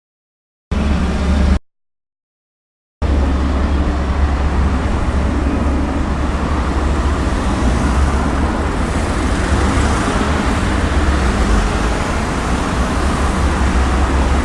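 Military aircraft engine noise overhead: a steady, loud rumbling roar, heard first in a brief cut under a second long near the start, then continuously from about three seconds in.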